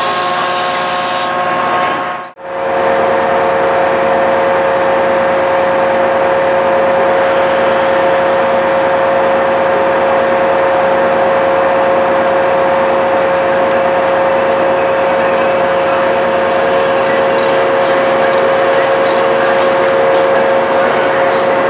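Diesel locomotive standing with a loud hiss of air that stops about a second in. Then a Chiltern Railways Mk3 coaching set runs slowly into the platform, giving a steady hum with a few held tones, and light clicks from the wheels as the coaches go by near the end.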